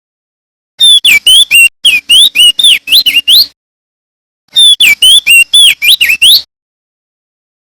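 Male crested white-eye (opior jambul) singing: two loud bursts of rapid whistled notes, each note swooping up and down, with a second's pause between them.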